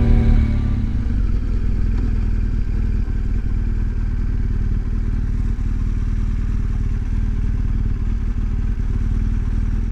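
BMW 1200 boxer-twin motorcycle under way, its engine running steadily beneath wind and road noise. The tail of a background music track fades out in the first half second.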